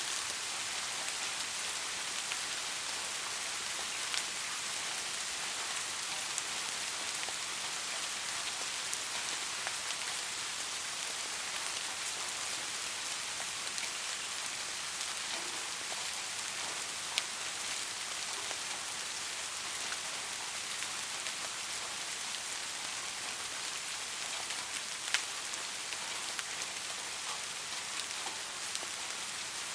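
Steady rain falling, an even dense hiss of drops, with a few louder single drops standing out now and then, about four seconds in, six seconds in, and twice in the second half.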